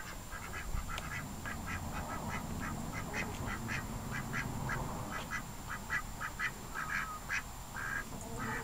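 Domestic ducks quacking in a run of short, repeated calls, several a second.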